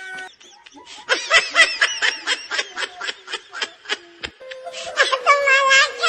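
High-pitched laughter in a rapid run of short 'ha' bursts, about five a second, followed near the end by a long held pitched note.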